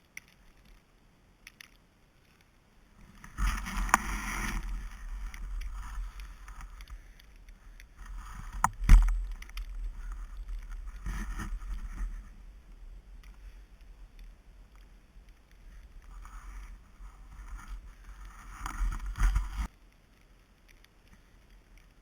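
A run of sliding and scraping over snow with heavy wind rumble on the microphone. It swells several times, has a sharp knock about nine seconds in, and cuts off suddenly near the end.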